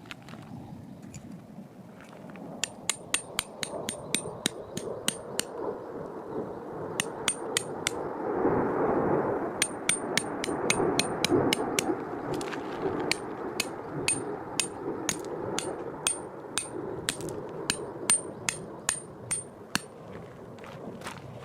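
Tent pegs being driven with a metal peg hammer: runs of quick strikes, about two to three a second, each with a bright metallic ring, with short pauses between the runs.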